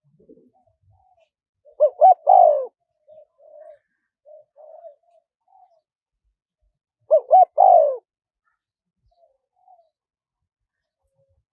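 Spotted dove cooing: two loud phrases about five seconds apart, each of two short coos followed by a longer drawn-out one. Faint short coo notes come between and after them.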